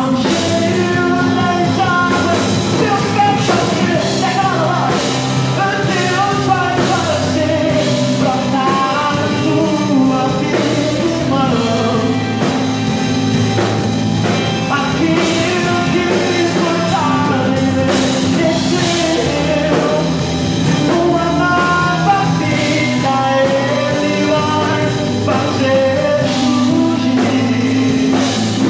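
Live church worship band playing a rock-style song: drum kit and keyboard under a wavering melody line, loud and continuous.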